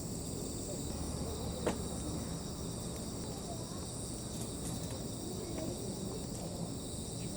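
A night insect chorus, crickets chirring steadily in several high bands. There is one sharp crack about a second and a half in.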